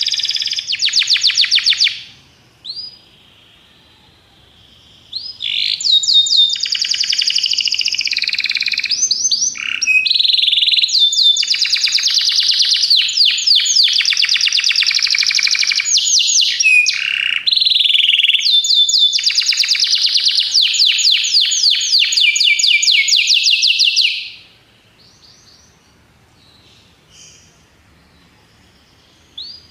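Domestic canary singing long phrases of very rapid trills, switching between rolls of different pitch, then pausing for a few seconds near the end with only faint chirps.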